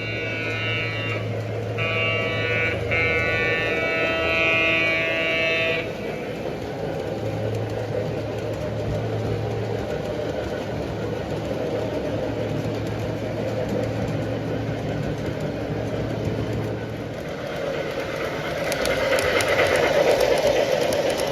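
Model train running on the layout, its sound-equipped locomotive blowing its horn in two blasts, a short one and then a longer one of about four seconds. A steady low hum runs under it, and near the end the rumble of the train on the track grows louder as it comes close.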